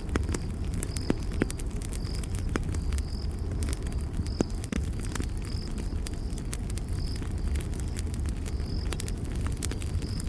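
Campfire crackling with sharp pops over a steady low rumble, while an insect chirps a short high note about once a second.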